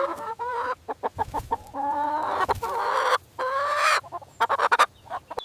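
Chicken clucking: a series of pitched calls, some drawn out and some short and quick, with a fast run of short clucks about four seconds in.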